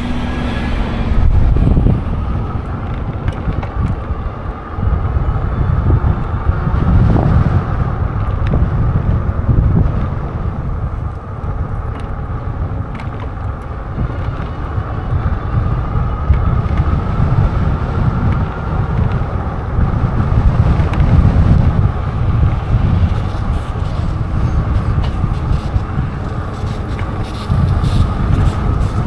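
Wind rumbling on the microphone of a Lectric XP e-bike under way, with a steady whine from its geared rear hub motor.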